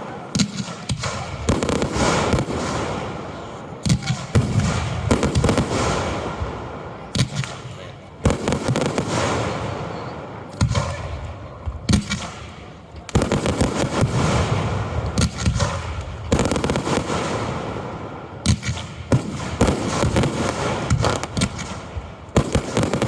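Aerial fireworks display heard close to the launch site: many sharp bangs in quick, irregular succession as shells are launched and burst, each with an echoing tail.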